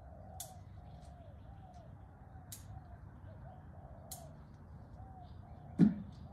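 A bird repeats a short, low call about twice a second, with a few brief high chirps from other birds. A single loud thump comes near the end.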